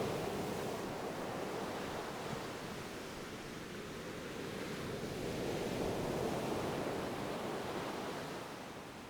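Ocean waves washing on a shore, a steady hiss that swells and recedes slowly, peaking again about two-thirds of the way through and fading near the end.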